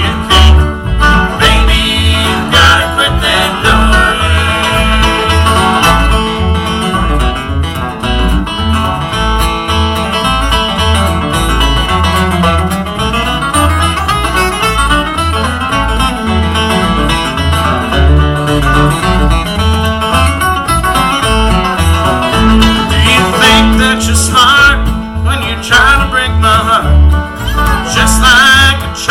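Bluegrass band playing: banjo and guitar over a steady bass beat.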